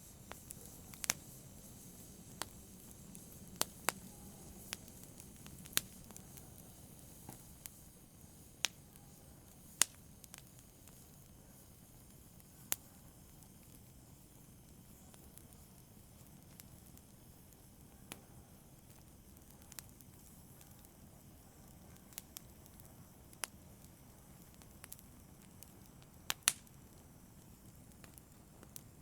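Wood fire burning in a fireplace, with a soft steady hiss under irregular sharp crackles and pops. The pops come more often in the first half, and there is a sharp double pop near the end.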